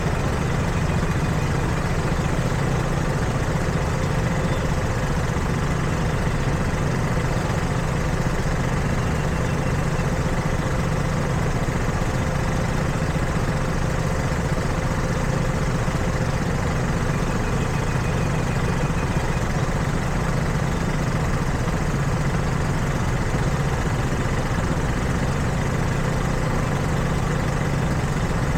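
Steady street traffic noise: a continuous low hum of vehicle engines.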